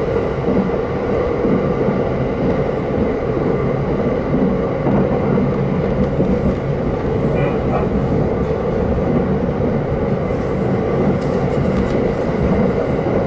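Electric commuter train running at speed, heard from inside the carriage: a steady rumble of wheels on rail with an even hum, and a few faint clicks near the end.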